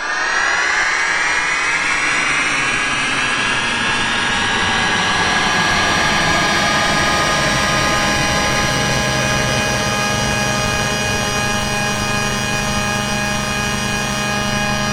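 A dense pile of many overlapping, edited-in sound effects that starts suddenly, with many pitches gliding up and down over the first few seconds before settling into a steady mass of held tones, like a jet engine's roar.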